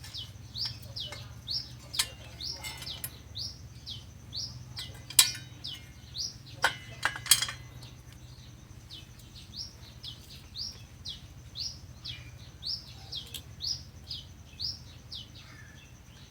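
A small bird chirping over and over, short falling chirps about twice a second, with a few sharp metallic clicks mixed in, the loudest about five seconds in, over a low steady hum.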